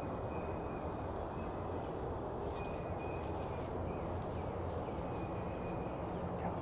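Quiet woods background: a low steady hiss and rumble, with faint thin bird chirps through the middle.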